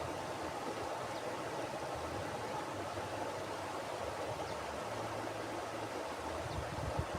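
Mountain river flowing over rocks: a steady rushing of water. Low buffeting rumbles start near the end.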